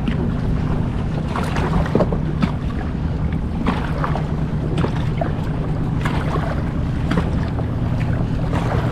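Kayak paddles dipping and splashing in a steady stroke rhythm, roughly one to two strokes a second, over a constant low hum.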